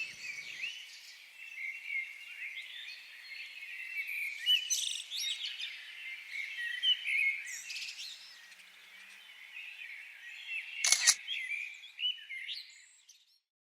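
Wild songbirds chirping and calling in many overlapping short, quick chirps, with one brief sharp click about eleven seconds in.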